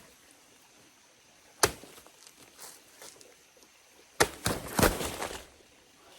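Blade chopping into a wild banana plant's trunk: one sharp chop about a second and a half in, then a quick run of several chops near the end.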